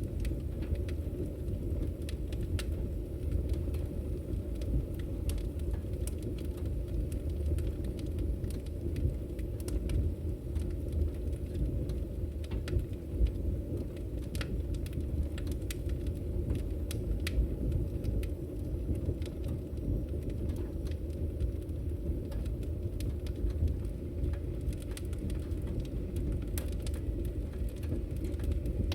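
Firewood burning in a fireplace: a steady low rumble of flame with scattered sharp crackles and pops, one louder pop a little before halfway through.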